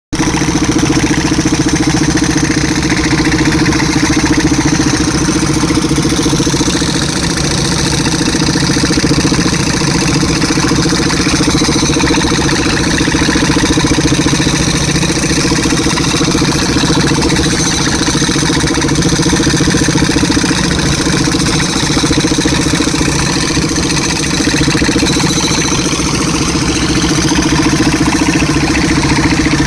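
Tractor engine driving a mounted air compressor, running loud and steady without a break.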